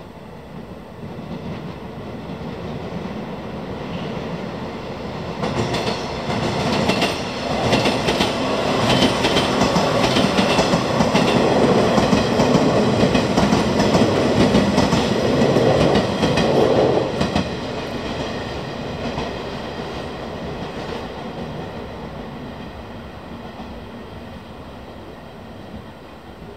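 JR West 115-series electric multiple unit passing on the Sanyō Line, wheels clattering over the rail joints. It grows louder as it approaches, is loudest for about ten seconds in the middle, then fades away.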